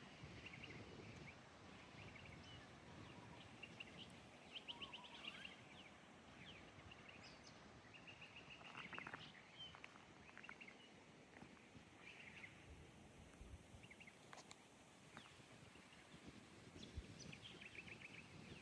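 Faint outdoor ambience with birds chirping and giving short rapid trills on and off over a low background hiss.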